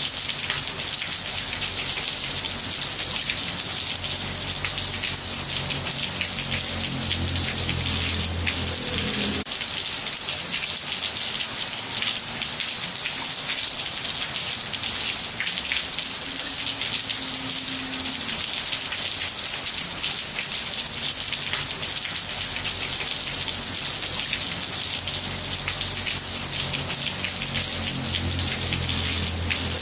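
Steady rain falling on roof tiles, a dense, even patter of many drops.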